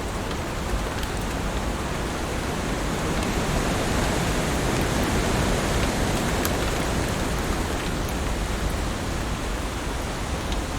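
Heavy rain falling steadily: a dense, even hiss with faint scattered drop ticks, growing a little louder around the middle.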